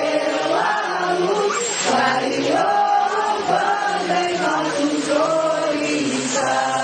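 A group of voices singing a devotional chant together, an Umbanda ponto, in a steady, sustained melody.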